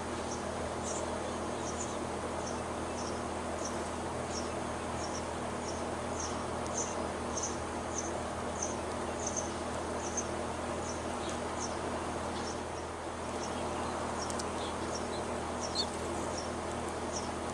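Short, high chirps repeating evenly, about one and a half a second, over a constant low hiss. A few different, lower chirps come in near the end.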